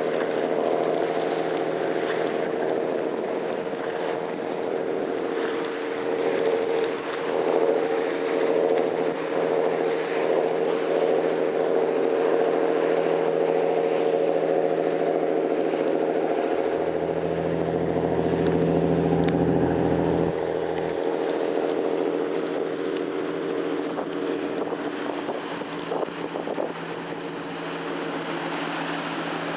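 Boat engine running steadily. From about 17 to 20 seconds in a deeper low rumble joins in, then drops away suddenly.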